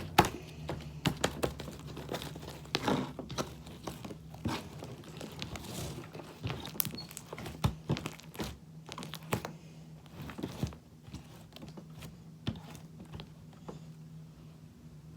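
Slime being squished and stretched by hand, giving irregular wet crackles and small pops.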